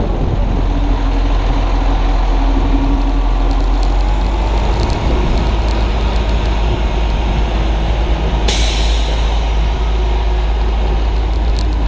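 Strong wind buffeting the camera's microphone, a steady low rumble, with a short burst of hiss about eight and a half seconds in.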